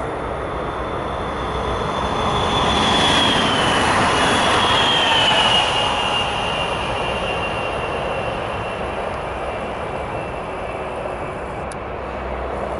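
PESA Acatus Plus EN64 electric multiple unit passing at speed: its running noise swells to its loudest a few seconds in and fades as it draws away. A high whine drops in pitch as it goes by.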